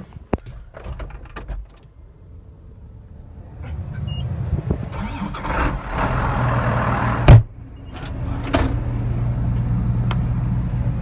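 Scattered clicks and knocks, then a vehicle engine starts and settles into a steady low idle. A loud door slam comes about seven seconds in, with a lighter knock a second later.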